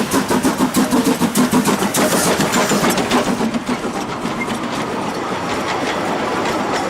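Narrow-gauge steam train running, with a rapid, even beat of about five strokes a second that gives way after about three and a half seconds to a steadier rolling rumble.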